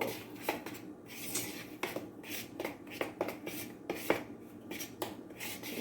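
A fork stirring dry flour and sugar in a mixing bowl: irregular light clicks and scrapes of the fork against the bowl, several a second.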